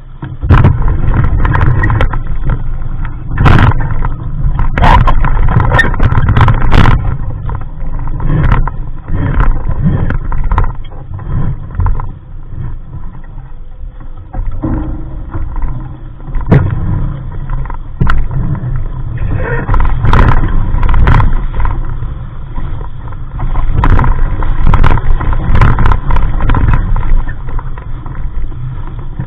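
Wind buffeting the microphone and water rushing and splashing against the hull of a small sailboat moving fast through waves, with sharp splashes now and then, several in the first seven seconds.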